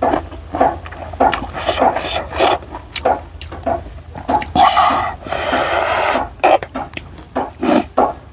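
Close-miked eating sounds: wet chewing and lip-smacking in quick irregular clicks, with a noisy hiss lasting about a second around five seconds in.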